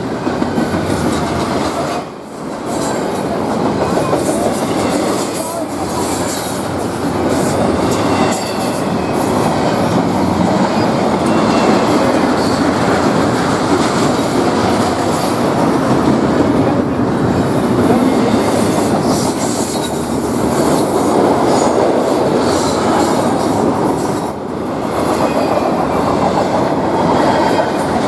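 Train rolling by on the rails: a continuous loud rumble of railcars with wheel clatter and some faint wheel squeal.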